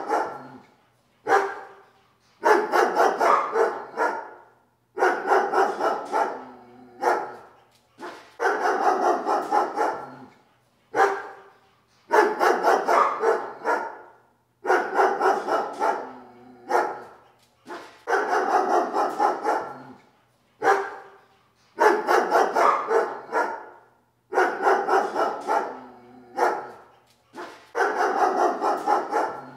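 A dog barking in rapid bouts, each bout lasting about two seconds, with a single short bark between bouts, repeating steadily about every three seconds.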